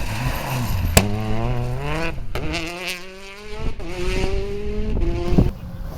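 Rally car engine pulling hard through the gears, its pitch climbing, dropping at each shift and climbing again, with a sharp crack about a second in and another near the end.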